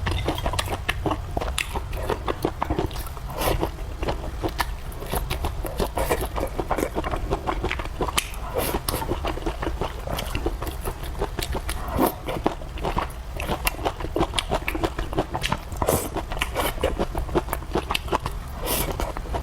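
Close-miked eating sounds: a person biting and chewing a meal of fried noodles, vegetables and rice, with many quick, irregular clicks over a steady low hum.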